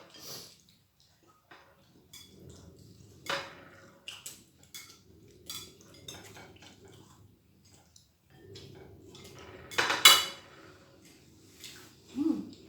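Cutlery clinking and scraping against plates and bowls during a meal: scattered light clicks, with one louder clatter about ten seconds in.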